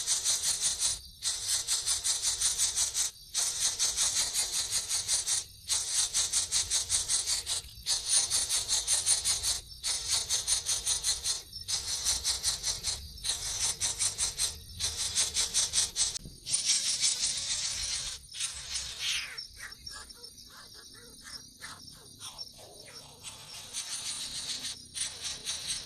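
A high-pitched, very fast buzzing trill repeated in phrases of about two seconds with brief breaks between them; about 19 seconds in it breaks up and falls away, then returns more softly near the end.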